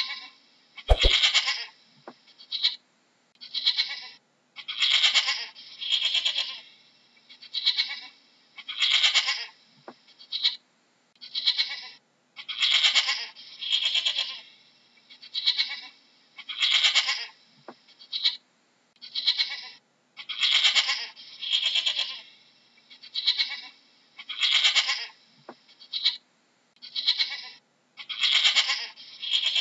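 A goat bleating over and over, one call every second or two with short gaps between.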